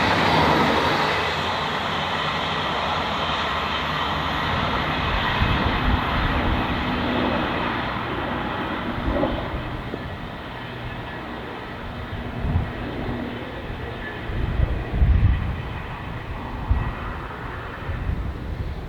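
Diesel train passing close at speed: a loud steady rush of engine and wheel noise with a whine, starting abruptly and easing off a little, with irregular low thumps in its later part.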